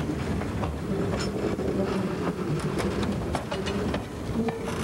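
Train running on the rails: a steady rumble with a low hum and scattered sharp clicks and knocks.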